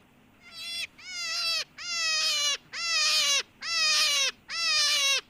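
Rabbit squealing: six short, high, pitched cries in quick succession, each falling in pitch at its end, the first one fainter.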